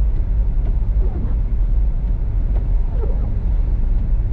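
Steady low rumble of a car driving on a snow-covered road at low speed, heard from inside the cabin, with a faint hiss above it.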